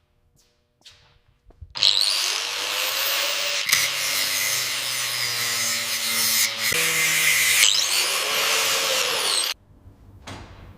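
A power tool running for about eight seconds. It starts abruptly about two seconds in, its pitch dips and recovers as it works, and it stops suddenly near the end.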